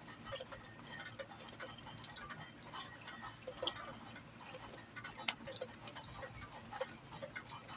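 Faint gusty storm wind, with scattered light ticks and clicks over it.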